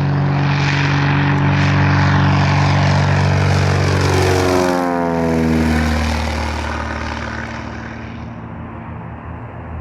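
Small four-seater propeller plane flying past just after takeoff: loud steady engine and propeller drone whose pitch drops about halfway through as it passes, then fading as it flies away.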